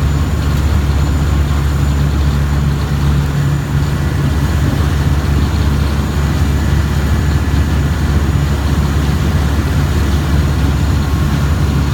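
River boat's engine running with a steady low drone.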